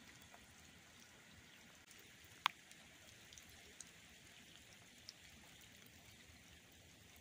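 Light rain falling as a faint steady hiss, with scattered drops tapping; the sharpest tap comes about two and a half seconds in.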